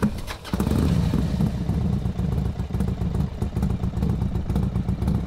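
A Can-Am Ryker three-wheeled motorcycle's engine running with a quick, uneven pulsing beat, after a sharp click right at the start.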